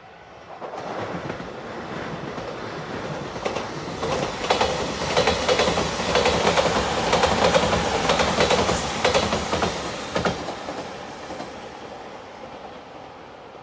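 JR Shikoku 8000 series Shiokaze electric limited express passing at speed, its wheels clattering over the rail joints in quick clicks. The sound builds from about a second in, is loudest in the middle, and fades away over the last few seconds.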